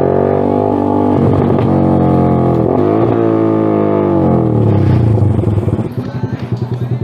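Suzuki Smash R's single-cylinder four-stroke engine through a loud aftermarket Creed exhaust, accelerating through the gears: the pitch climbs, drops at a shift about a second in and again about three seconds in, and climbs again. About five seconds in the throttle closes and the engine winds down with a pulsing burble on the overrun.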